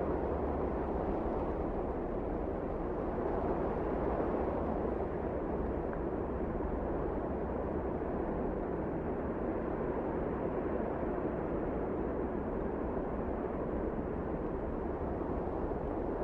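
Wind blowing steadily: a continuous low rushing noise that swells slightly and eases without pause.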